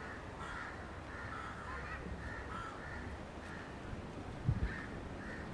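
Crows cawing, a string of short repeated calls, over steady outdoor background noise. A brief low thump about four and a half seconds in.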